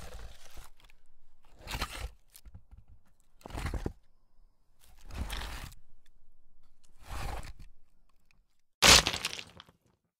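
Impact sound-effect recordings: a series of five rough, noisy strokes, each under about a second and a half long, then a much louder sharp impact near the end.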